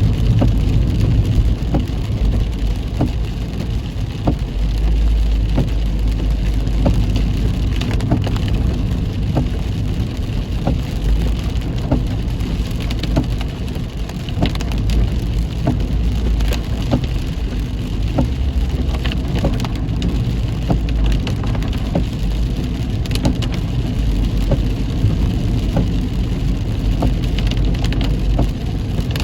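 Heavy rain on a moving car: many scattered drops tick on the car's body and glass over a steady low road and engine rumble.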